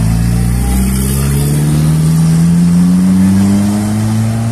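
Turbocharged Volkswagen Gol engine under hard acceleration, pulling away in one long gear with its note climbing slowly and steadily.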